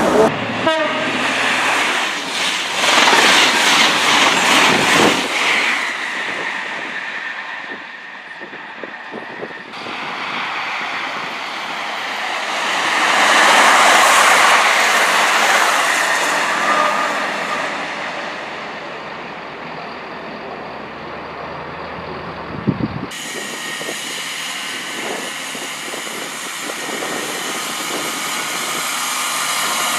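Passenger trains running past at a station: steady rail and wheel noise with clickety-clack and some wheel squeal. The sound changes abruptly about ten seconds in and again about twenty-three seconds in.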